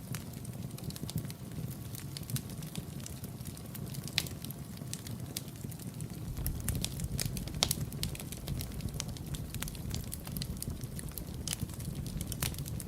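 Wood fire burning in a fireplace: a steady low rumble of flames with frequent sharp crackles and pops scattered irregularly through it.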